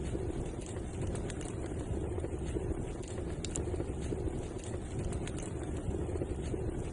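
Wood fire in a fireplace burning with a steady low rumble and scattered sharp crackles and pops.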